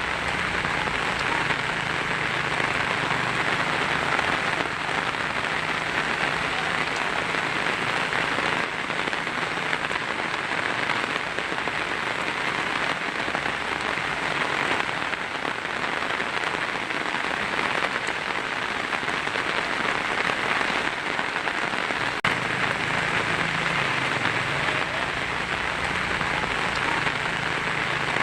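Heavy rain falling steadily on a tin roof, an even hiss of drops with no thunder.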